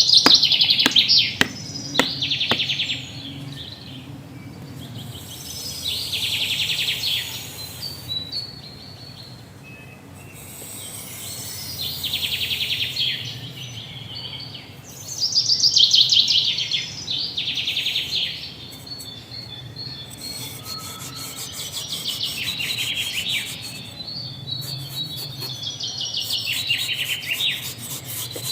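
Bird song: short, rapid trilled phrases that fall in pitch, repeated every few seconds over a faint steady low hum.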